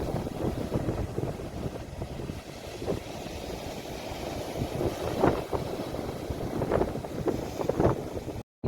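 Sea waves washing and splashing on the shore, with wind rumbling on a phone microphone. The sound cuts out for an instant near the end.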